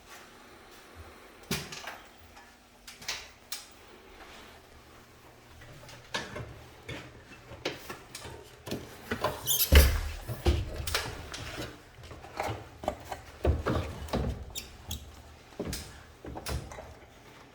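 Irregular clicks, knocks and rattles of plastic panels and parts being handled and fitted on a ceiling-mounted LG one-way air conditioner during reassembly, with a louder knock about ten seconds in.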